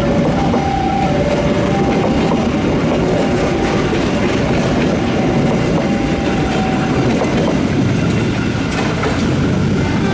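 Indonesian passenger train running past, a loud steady rumble of wheels on the rails with faint high tones coming and going over it.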